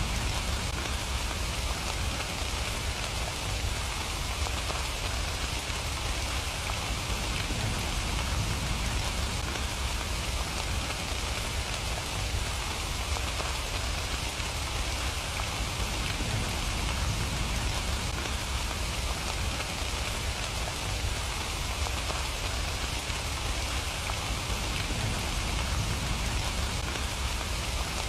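Steady rain falling and pattering on surfaces, an even hiss with no let-up or change.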